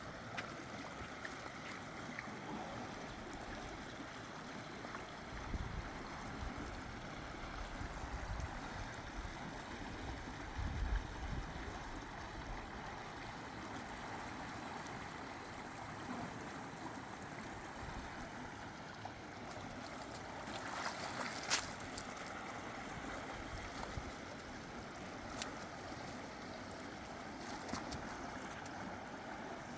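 Steady rush of flowing river water, with low gusts of wind on the microphone between about 5 and 11 seconds in and a sharp knock about 21 seconds in.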